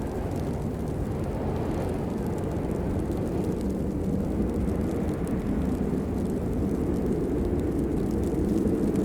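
Steady rain: an even, deep rushing noise, with faint ticks of drops above it.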